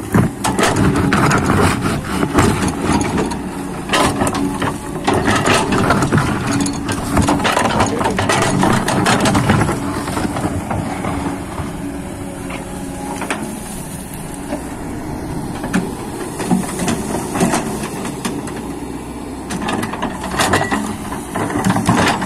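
Hydraulic excavator's diesel engine running under load, with repeated knocks and scrapes as the bucket digs and lifts stones and sand.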